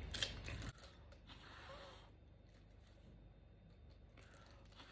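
Faint puffs of breath blown by mouth to push out wet acrylic pour paint into a bloom: short soft hisses, one about a second in and another near the end.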